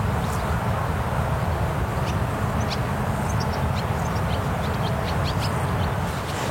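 Birds chirping: many short, high, downward-sliding chirps in quick succession through the middle of the stretch, over a steady low rumble.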